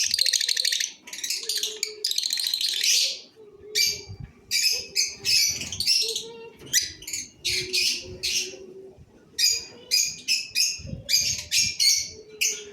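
Cobalt masked lovebirds calling: a dense, harsh chatter for the first three seconds, then short, sharp, high chirps in quick bunches.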